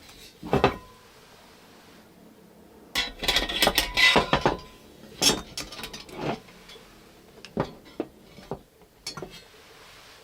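Clinks and knocks of small hard objects being handled: a couple near the start, a dense run of them about three to four and a half seconds in, then single knocks spaced out toward the end.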